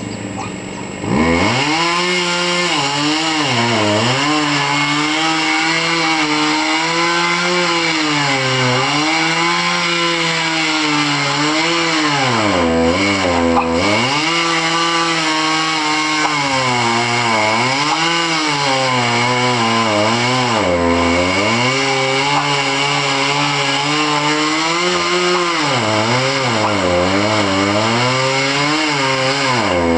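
Chainsaw engine revving up sharply about a second in and then cutting wood. Its pitch dips and recovers again and again as the chain bites into the cut.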